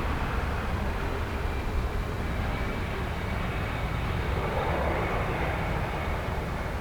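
Jet airliner engines: a steady rumble with a faint whine over it, swelling about four to five seconds in.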